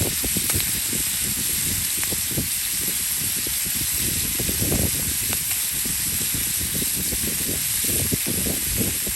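Wind buffeting the camera microphone: a constant, irregular low rumble and flutter over a steady hiss.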